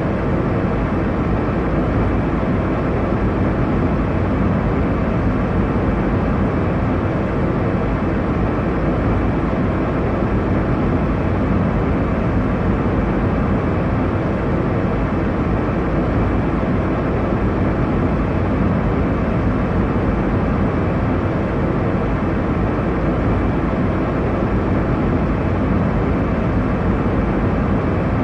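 Steady airliner cabin noise in flight: a constant low rush, heaviest in the low end and dull in the highs, with no changes or distinct events.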